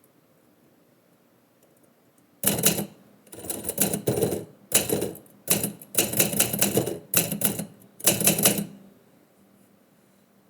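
Typewriter keys being struck in about seven quick bursts of keystrokes, starting a couple of seconds in and running for about six seconds.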